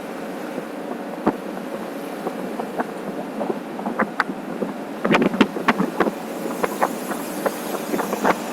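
Wind rushing over the microphone of a moving motorcycle, a steady roar of air with sharp irregular knocks and crackles that come thicker from about halfway through.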